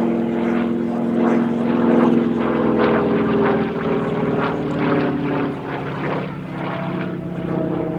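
Radial-engined propeller aircraft flying past, its engine loud and steady, then dropping in pitch and fading from about halfway through as it moves away.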